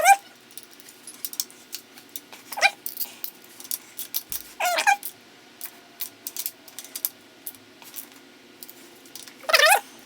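Four short, high, wavering whines, each a fraction of a second long, with light clicks and taps scattered between them.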